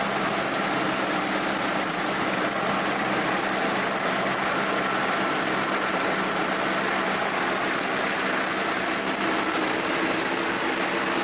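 Steady mechanical drone with a few constant hum tones, unchanging throughout.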